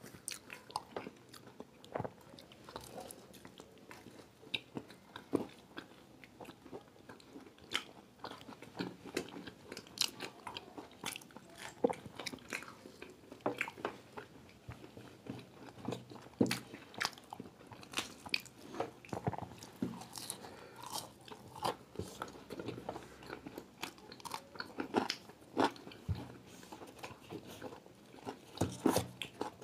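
Two people biting into and chewing fried samosas, giving a close, irregular run of crunches and chewing sounds.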